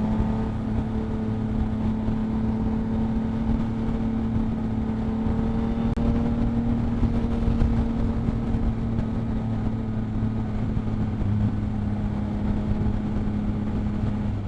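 2022 Yamaha MT-09's three-cylinder engine running through a Two Brothers aftermarket exhaust, holding a steady note with only a slight, slow change in pitch.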